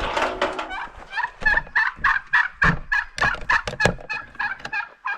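Meat chickens squawking in a rapid run of short, harsh calls, about three or four a second, that fade near the end.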